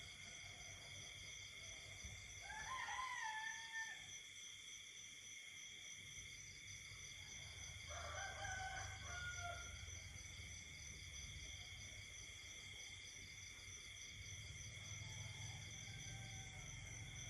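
Night chorus of insects and frogs, a steady high-pitched trilling at several pitches. Two louder, drawn-out animal calls break in, about three seconds and about eight seconds in, each lasting a second or so.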